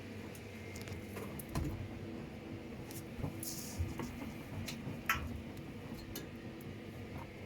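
Washing machine running a wash: a steady motor and drum hum with wet laundry tumbling, giving irregular soft splashes and clicks.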